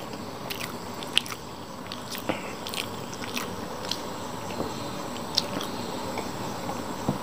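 A person chewing a mouthful of soft fried rice close to the microphone, with small wet mouth clicks and smacks scattered throughout.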